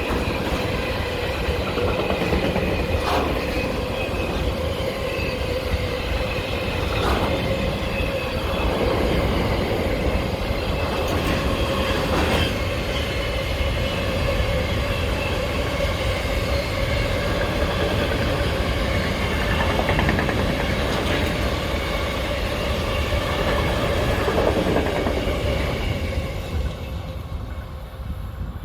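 A train passing at trackside: a steady rumble with a sustained ringing tone from the wheels, and single clicks as wheels cross rail joints. It fades away near the end.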